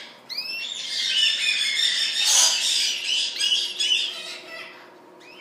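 A roomful of caged parrots and canaries calling together, with many short chirps and squawks overlapping. The calls thin out in the last second or so.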